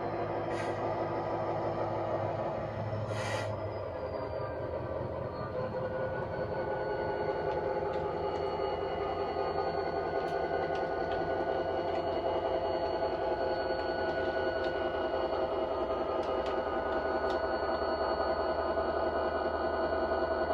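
Sound decoder of an OO gauge Class 59 diesel locomotive model running its diesel engine sound through the model's small speaker, with two short hisses in the first few seconds. The engine note grows fuller and a little louder after about five seconds as the loco is driven from the DCC hand throttle.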